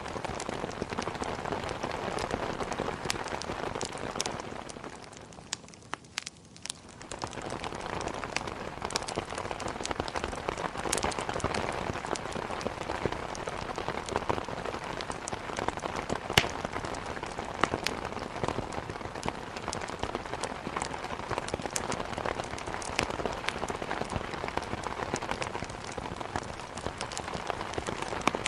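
Steady rain with scattered sharp pops and crackles of a wood fire burning in a fireplace. The sound dips briefly about five seconds in, then comes back up.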